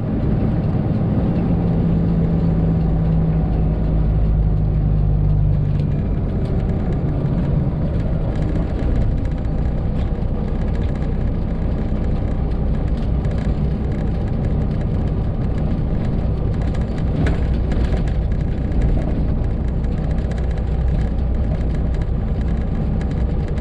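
Diesel semi-truck engine, a Detroit Diesel Series 60, running steadily under way, with a shift in its low engine note about six seconds in as it changes speed or gear.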